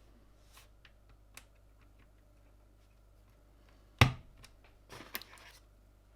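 Small plastic clicks and taps from handling mechanical keyboard parts, with one sharp, loud knock about four seconds in, then a quick run of clicks a second later.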